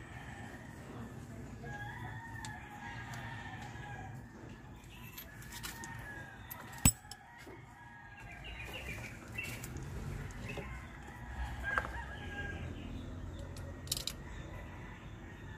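Chickens clucking and a rooster crowing in the background, with scattered sharp clicks and clinks; the loudest is a single sharp click about seven seconds in.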